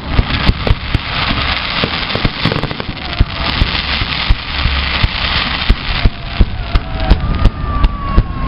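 Fireworks display: a rapid, irregular series of sharp shell bursts and bangs over dense crackling, heaviest in the first half.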